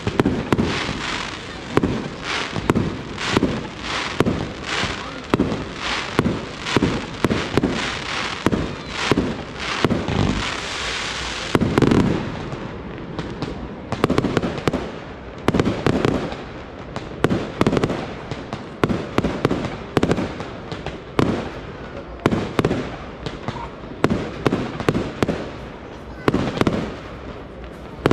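Fireworks display: aerial shells bursting one after another, about one or two sharp bangs a second, with a denser stretch of bursts and hiss around ten to twelve seconds in and the loudest bang near twelve seconds.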